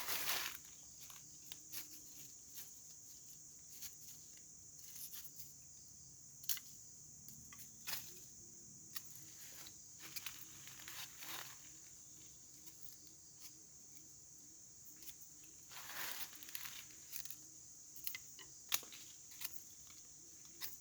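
Forest insects keeping up a steady high-pitched drone, with scattered short clicks and snaps throughout.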